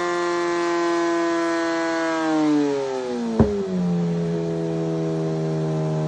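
Yamaha supersport inline-four engine with an Arrow exhaust, held at high revs, then revs sagging a little after two seconds in. A single sharp exhaust crack comes about three and a half seconds in, and the engine then holds steady at lower revs.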